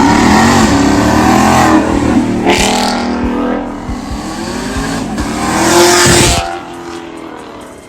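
A car engine revving hard, its pitch climbing and falling as it accelerates, with a second loud surge that cuts off sharply about six and a half seconds in.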